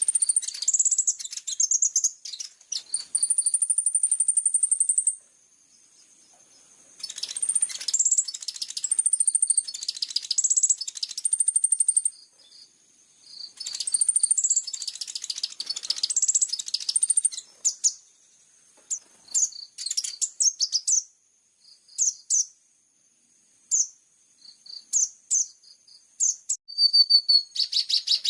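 Small songbird singing high-pitched, fast phrases of chirps, short whistled notes and trills, a few seconds each with short pauses between, closing with a rapid, even trill.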